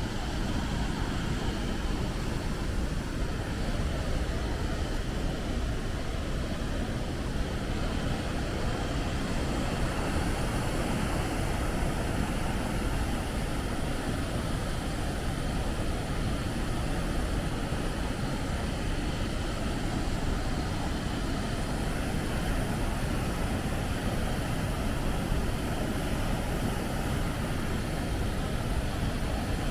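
Steady rush of a waterfall, a dense, unbroken roar of falling water heaviest in the low range.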